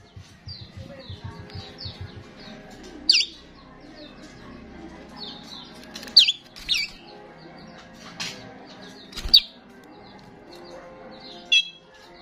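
Starling calling: a stream of short chirps, with a loud, sharp whistle that falls in pitch every second or two, about six times.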